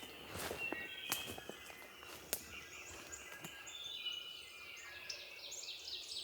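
Scattered crunches and twig snaps of footsteps in dry leaf litter, with songbirds singing; a rapid series of repeated high chirps fills the second half.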